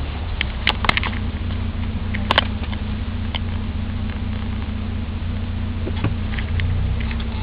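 Volvo 740 GLE 16-valve's 2.3-litre four-cylinder engine running steadily at low speed, heard from inside the cabin while driving, with a few sharp clicks or rattles in the first few seconds.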